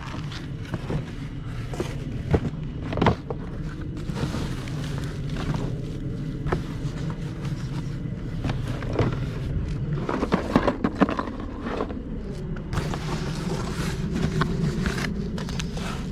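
Items being handled and rummaged through: scattered knocks and clatters, busiest about two-thirds of the way in, over a steady low rumble.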